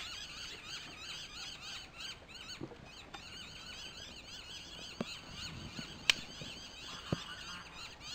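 Campfire wood popping with three sharp cracks, about five, six and seven seconds in, the middle one the loudest, over continuous rapid high-pitched chirping.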